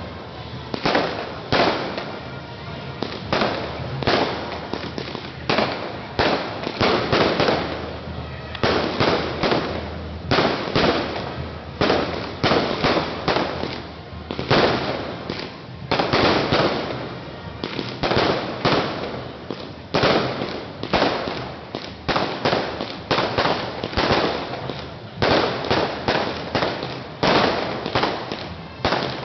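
Fireworks bursting in quick, irregular succession, several bangs a second with short echoing tails, in clusters with brief lulls between them.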